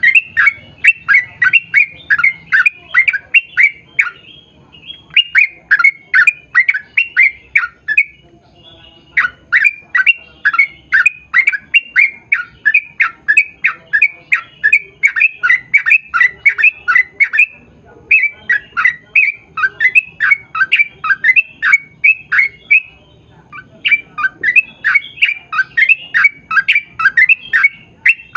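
Yellow-vented bulbul (trucukan) singing long, rapid chattering phrases. Each phrase is a fast run of short, falling notes, about four or five a second, broken by short pauses about four, eight, seventeen and twenty-three seconds in.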